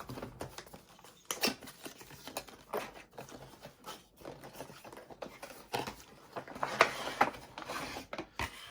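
A small product box and its packaging being handled and opened by hand: irregular scrapes, clicks and crinkling.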